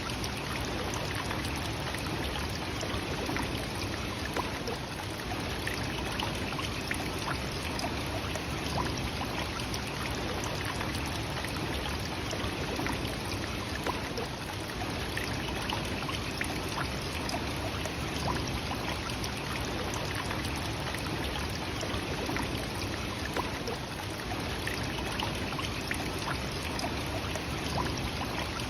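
Nachi Falls, a tall waterfall, with its falling water rushing in a steady, unbroken noise.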